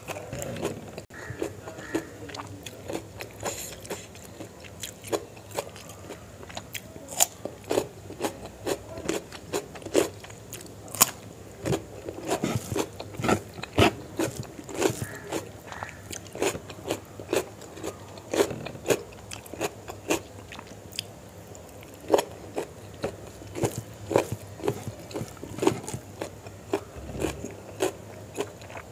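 A person chewing a mouthful of rice and spicy chicken liver and gizzard curry, eaten by hand, with an irregular run of many sharp mouth clicks of varying loudness.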